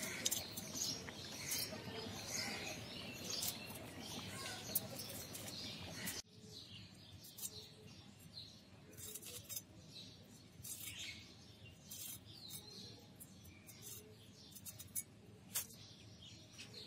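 Small birds chirping over an outdoor background hiss, with a sudden drop in overall level about six seconds in.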